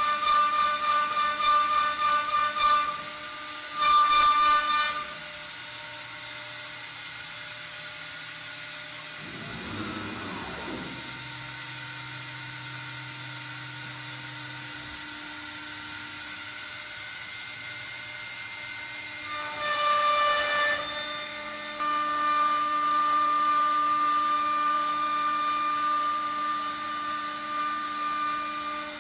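CNC router spindle cutting wood on a baluster blank, a high, steady whine. It is loud for the first three seconds, briefly again about four seconds in, and again from about twenty seconds on. In between it drops to a quieter hum, with a tone that sweeps down in pitch about ten seconds in.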